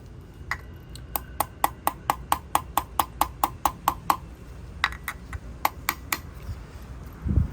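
Rapid light hammer taps, about four a second, driving a front main (crankshaft) seal into a Volvo B230 engine, with a short pause and a few more taps after it. Near the end comes a dull thump. The mechanic reckons the taps are damaging the seal.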